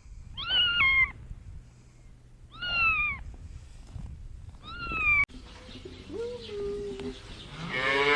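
Domestic cat meowing three times, each meow short and falling in pitch, about two seconds apart. After a break, a cow's low moo starts near the end.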